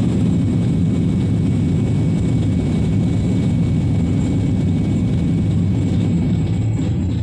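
Steady low rumble of a jet airliner heard from inside the passenger cabin: engine and airflow noise in flight.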